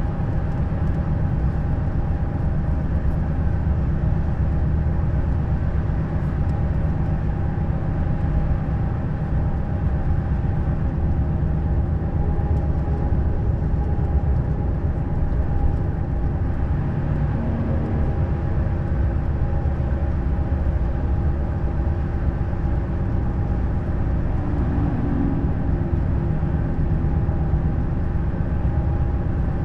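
Neoplan Skyliner N 1122/3C double-decker coach driving at a steady pace: a constant low engine and road rumble with a steady drone.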